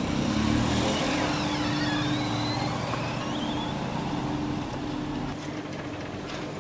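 Car engine idling, a steady hum that falls away about five seconds in. Faint high squeals glide up and down in the first half, and a few sharp clicks come near the end.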